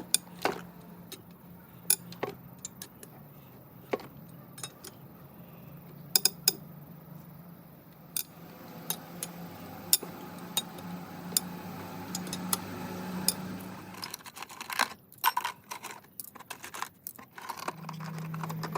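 Scattered sharp metallic clicks and clinks of small engine parts and hand tools being handled during an engine rebuild. A faint steady low hum lies underneath and fades out about three-quarters of the way through.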